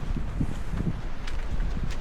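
Wind buffeting the microphone as a low rumble, with the walker's footsteps ticking faintly over it at a walking pace.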